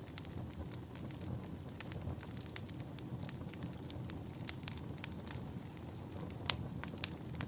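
Wood fire crackling and popping over a low steady rumble, with one sharper pop near the end.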